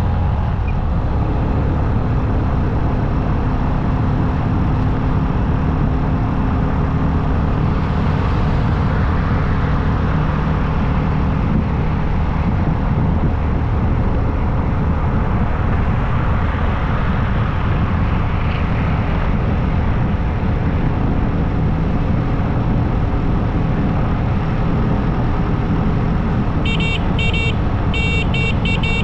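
Motorcycle engine running steadily at cruising speed, with wind and road noise. Near the end comes a quick run of short high-pitched beeps, like a horn or beeper.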